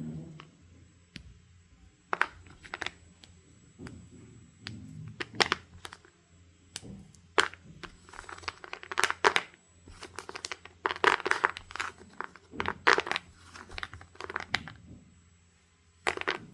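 Wet chalk being scraped and crunched in irregular bursts of gritty strokes and sharp crackles, sparse at first and thickest in the second half, with a last crunch near the end.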